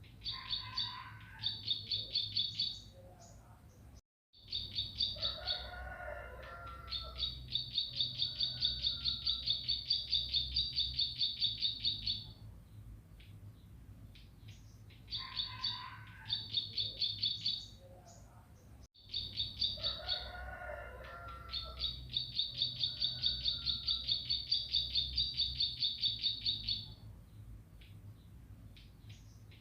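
Bar-winged prinia (ciblek) singing: runs of rapid, high, repeated chip notes, about five or six a second and some lasting several seconds, mixed with lower chattering notes. The same song sequence repeats about every 15 seconds, as a looped training recording, over a faint steady low hum.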